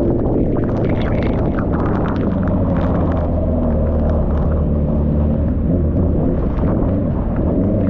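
A motorcycle engine running while riding, under a heavy low rumble of wind on the microphone in a rainstorm.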